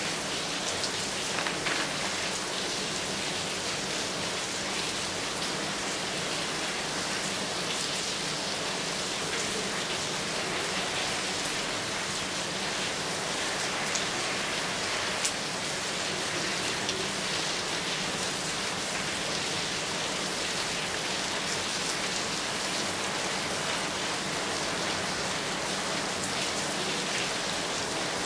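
Steady rain falling, an even hiss, with a few sharper taps of drops landing close by.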